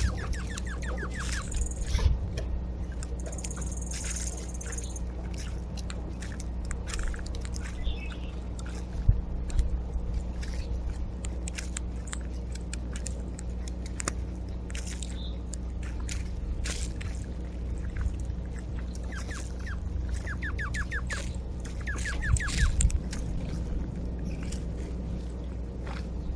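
Birds at a backyard feeder: scattered short calls and chirps with many small clicks and taps, including a few quick runs of rapid ticks late on, over a steady low hum.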